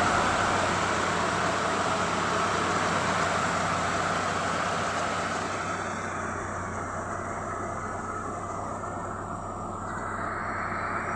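1998 Honda Accord's F23 four-cylinder engine running steadily, a low hum under a broad rushing noise that eases off gradually.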